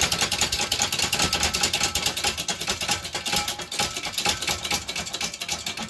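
Rapid mechanical clicking and rattling from a press working as black powder is rammed into a rocket tube, easing off somewhat toward the end.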